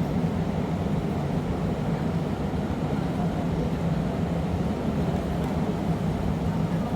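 Steady low roar of a glassblowing studio's gas-fired furnaces and blowers running, even and unbroken.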